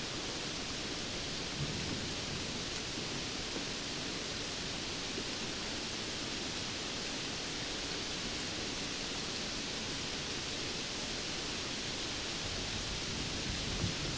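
Steady rain falling, a dense even hiss with a few faint drop ticks.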